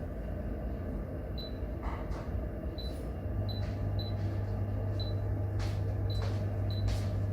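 Pellet stove-boiler running: a steady low hum comes in about three seconds in, with scattered clicks and short high chirps over a steady background noise.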